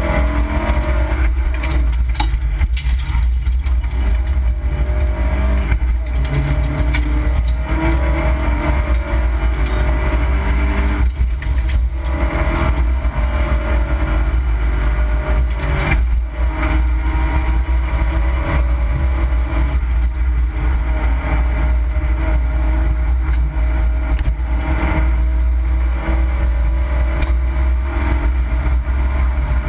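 Opel Corsa B rally car's engine driven hard, heard from inside the cabin, its pitch climbing and falling repeatedly over a heavy low rumble, with two brief drops near the middle.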